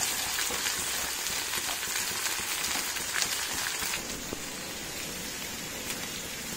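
Chopped ivy gourd pieces sizzling steadily in hot coconut oil in a wide frying pan while being stirred with a wooden spatula. The sizzle drops slightly quieter about four seconds in.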